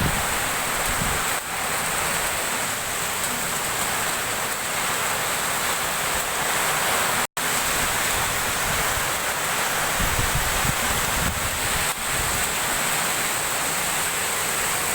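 Heavy rain and hail pouring down in a storm: a steady, loud rushing noise, with gusts of wind buffeting the microphone now and then. The sound cuts out for an instant a little past halfway.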